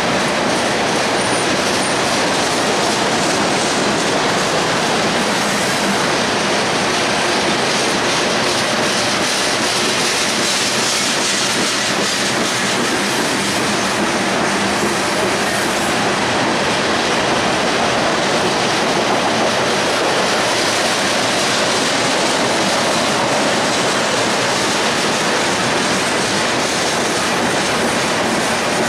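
Covered hopper cars of a freight train rolling past close by: a steady, loud noise of steel wheels running on rail.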